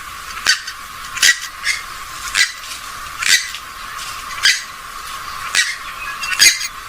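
Recorded calls of a rail-family waterbird of the swamphen/moorhen kind: short, sharp, high calls repeated about once a second, some in quick pairs.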